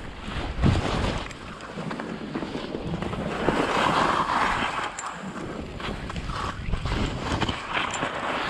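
Wind rushing over the microphone of a moving skier, mixed with the hiss of skis sliding through deep fresh snow. A low thump comes less than a second in, and the rush swells midway through.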